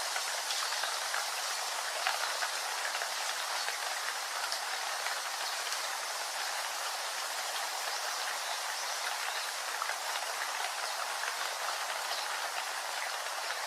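Steady rainfall: a dense, even hiss with many small drop ticks.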